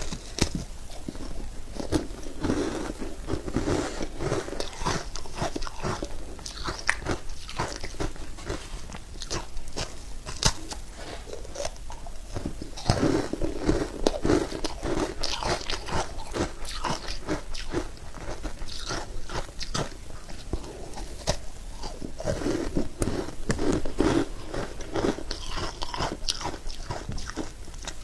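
Close-miked biting and crunching of ice: a dense run of sharp, crisp crunches. Several stretches of duller, lower-pitched chewing are mixed in.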